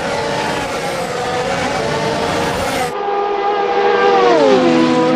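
Vehicle sounds: engine and road noise, then, after a sudden cut about three seconds in, a steady droning tone with several pitches that glides down in pitch about a second and a half later.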